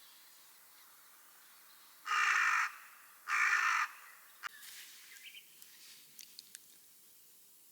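A crow cawing twice, each caw about two-thirds of a second long, a little over a second apart. A few faint clicks follow.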